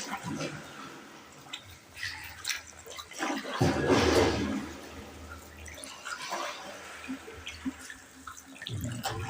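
Canoe paddle strokes swishing and splashing in the water inside a canal tunnel, a larger splash about three and a half seconds in, with scattered small drips and clicks between.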